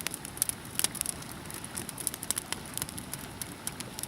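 Wood campfire crackling, with many small irregular pops and snaps over a faint steady hiss.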